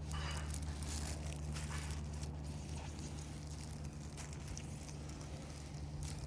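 Microfiber cloth wiping and rubbing across a plastic headlight lens in short irregular strokes, cleaning off oxidation with acetone, over a steady low hum.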